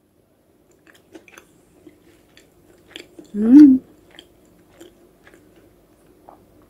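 A person chewing a mouthful of soft fried chicken liver, with small wet mouth clicks. About halfway through comes a short hum of the voice, the loudest sound.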